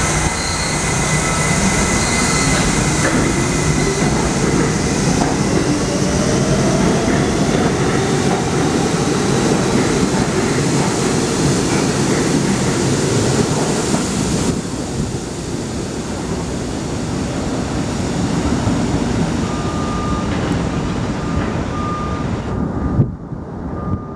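An R68 New York City subway train pulling out of the station, its DC traction motors whining up in pitch as it accelerates over the first several seconds, with wheels running loudly on the rails. The sound eases after about two-thirds of the way through as the train draws away. A sharp knock comes near the end.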